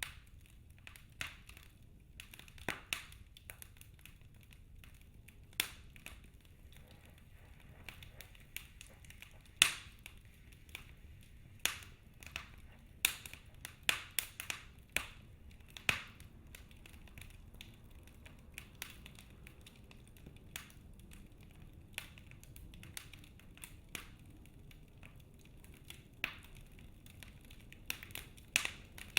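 Wood fire in a fireplace crackling: irregular sharp pops and snaps of burning logs, some louder ones clustered near the middle, over a faint low hiss.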